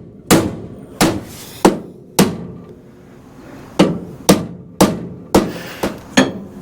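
A steel hammer striking the bent steel front frame rail of a 1966 Ford Ranchero, hammering out curb damage: about nine sharp metal-on-metal blows, four in a row, then a short pause, then five more.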